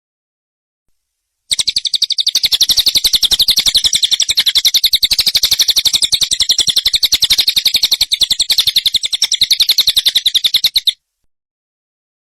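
Bird's harsh chattering call: a fast, even run of high-pitched notes that starts about a second and a half in, lasts around nine seconds and cuts off abruptly.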